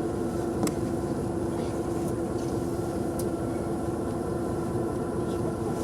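Steady drone of a stationary vehicle's engine idling, with a constant low hum and a few faint clicks.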